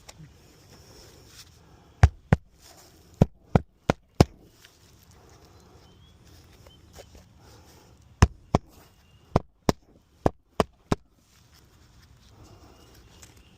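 Sharp knocks in two runs of about six each, roughly three a second, the first starting about two seconds in and the second about eight seconds in.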